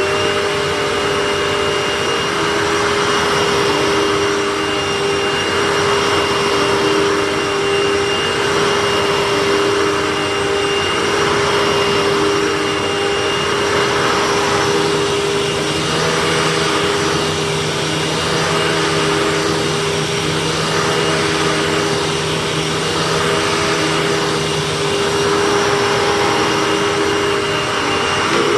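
Hoover Tempo Widepath upright vacuum running steadily on carpet, its stiff brush roll engaged while it picks up baking soda. A steady motor whine sits over an airy rush that swells and fades about every two seconds as the vacuum is pushed back and forth.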